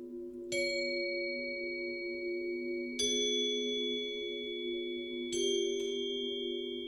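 Crotales struck three times, a few seconds apart, each high bell-like note ringing on for seconds over sustained vibraphone tones.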